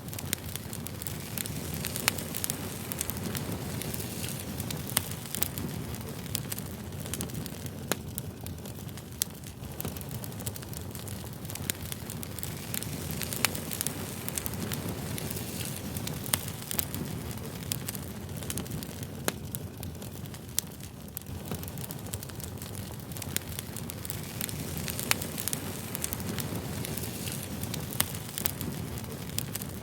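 Campfire burning steadily, with a constant low roar of flames and many sharp crackles and pops from the burning wood.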